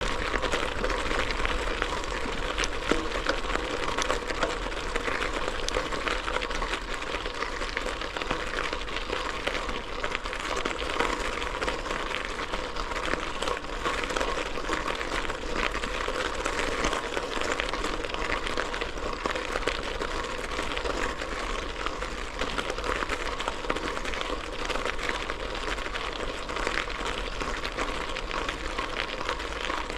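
Gravel bike tyres rolling over a loose gravel track: a steady, dense crunching crackle of stones under the wheels, without a break.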